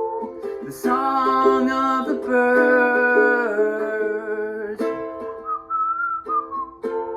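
A whistled melody over a strummed stringed instrument, the instrumental close of a song. The chords swell louder and fuller for a few seconds in the middle.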